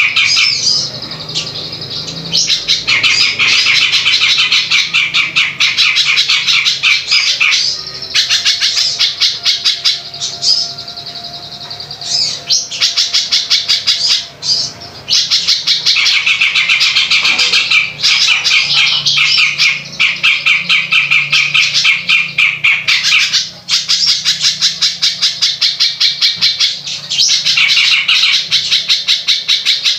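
A songbird giving long runs of rapid, harsh chattering notes, each run lasting several seconds with short breaks between them.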